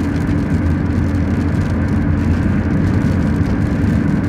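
Steady road and engine rumble inside a moving car's cabin, heaviest in the low range and unchanging throughout.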